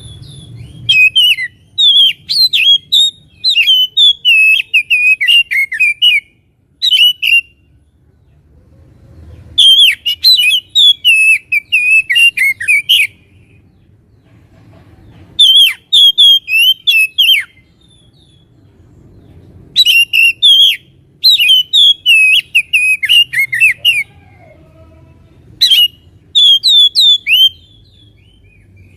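Oriental magpie-robin (kacer) singing its full, forceful song: rapid, varied whistled phrases in six loud bursts of one to four seconds, with short pauses between.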